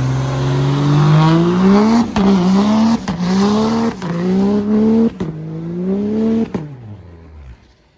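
Truck engine under full throttle, pitch climbing and dropping back at each upshift, about five shifts roughly a second apart. The throttle then closes and it winds down to quiet.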